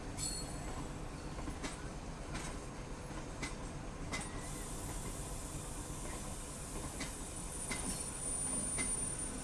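MEMU electric multiple-unit train running on the rails, a steady rumble with scattered sharp knocks from the wheels. A thin high whine sets in about halfway through and holds.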